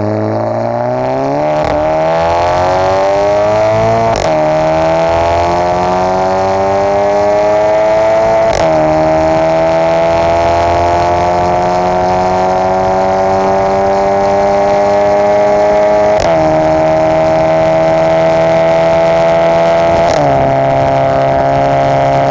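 VW Golf 7 GTI's turbocharged four-cylinder engine, breathing through a Bull-X EGO-X valved aftermarket exhaust, accelerating hard and shifting up five times. The engine note climbs in pitch and drops back at each upshift, with a sharp crack from the exhaust at every shift.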